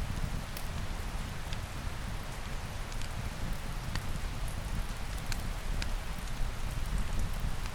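Steady rain with a deep, constant low rumble, dotted with scattered sharp little ticks at irregular times.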